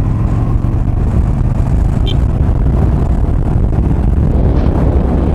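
Yamaha XV950R's air-cooled V-twin engine running steadily as the motorcycle is ridden along the road: a low, even rumble.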